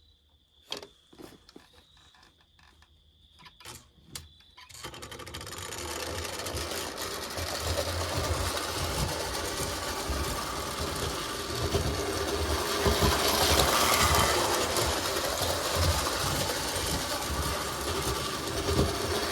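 Lionel toy steam locomotive's electric motor running and its wheels rolling over tubular track, a steady whirring, rattling rumble. It starts about five seconds in after a few light clicks and grows louder over the next several seconds.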